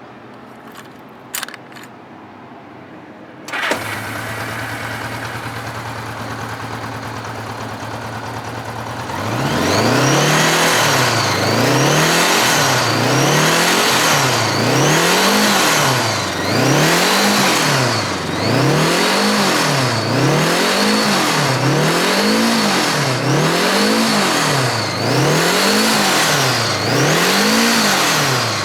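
Honda Gold Wing GL1100A flat-four engine. After a couple of clicks it starts about three and a half seconds in and idles steadily. It is then revved over and over, about ten rises and falls in pitch close together, and drops back to idle at the end.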